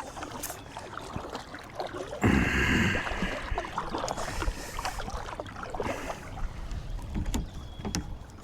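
Kayak being paddled: the paddle blades dip and splash, with scattered small knocks and clicks. A louder rush of water comes about two seconds in.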